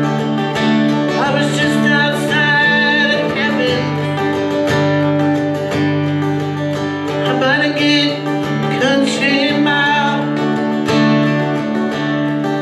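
Live acoustic guitar accompaniment to a country-folk song in an instrumental passage between sung lines. Steady held chords run underneath, and a wavering higher lead melody comes in twice.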